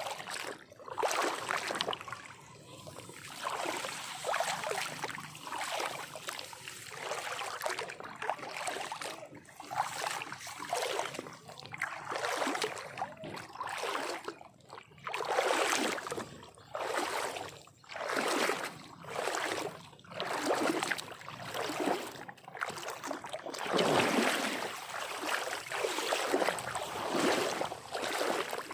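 Water sloshing and splashing in repeated irregular surges, about one every second or two.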